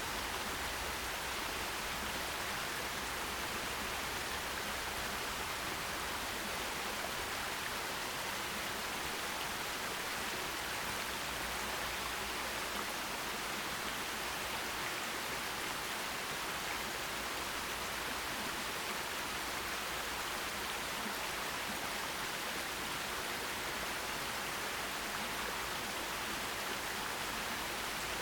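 Forest stream flowing, a steady, even rush of water that never changes.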